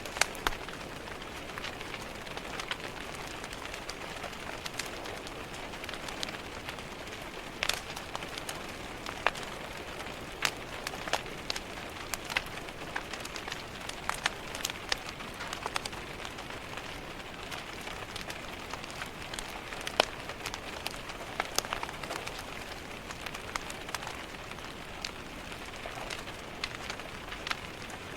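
Steady rain pattering on a window, mixed with a crackling wood fire: an even hiss broken by irregular sharp pops and clicks.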